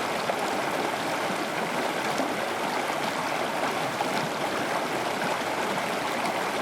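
Steady rush of running water, like a stream, even and unbroken.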